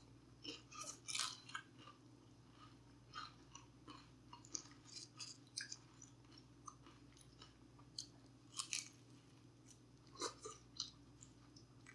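Close-miked chewing and mouth sounds of a person eating: faint, irregular crackles and smacks, with a few louder bursts scattered through.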